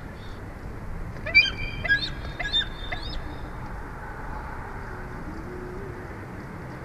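Bald eagle calling: a quick run of high, piping chirps starting about a second in and lasting about two seconds, over steady low background noise.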